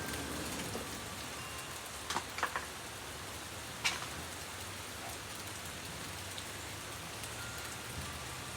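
Steady rain falling, an even hiss of drops, with a few sharp taps about two seconds in and one louder one near four seconds.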